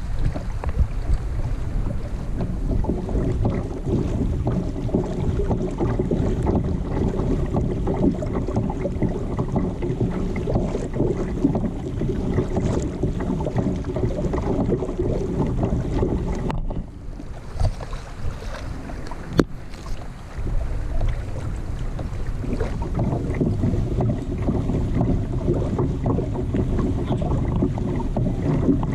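Wind buffeting the microphone over water noise from a kayak on the sea, steady and loud, with a lull of a few seconds about two-thirds of the way through and a single sharp click during it.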